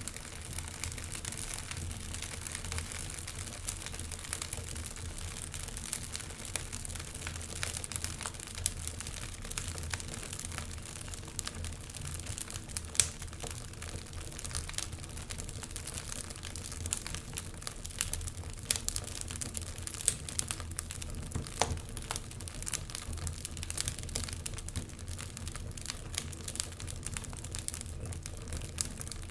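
Wood fire burning in a fireplace: a dense, irregular crackle of small snaps and pops over a low steady rumble, with a sharper pop about 13 seconds in.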